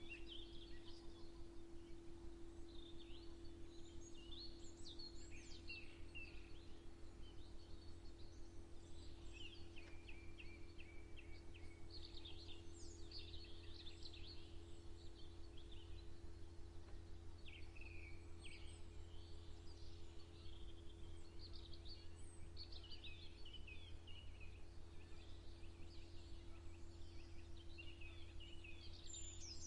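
Small songbirds chirping and trilling, many short calls overlapping throughout, over a faint steady low hum.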